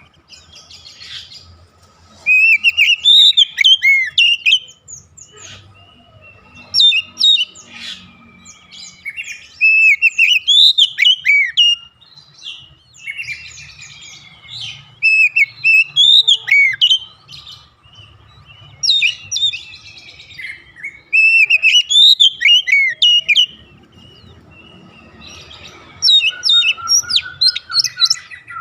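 Oriental magpie-robin (kacer) singing: repeated phrases of rapid, varied, swooping whistled notes, each phrase two to four seconds long with short pauses between.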